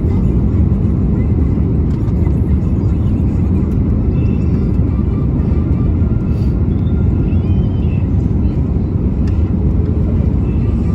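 Steady low rumble of an Airbus A320 in flight, engines and airflow heard inside the cabin, without sudden jolts or changes.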